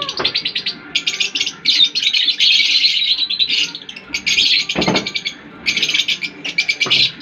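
A flock of caged lovebirds chattering: a dense, fast run of high-pitched chirps with brief pauses. Two dull knocks sound about five and seven seconds in.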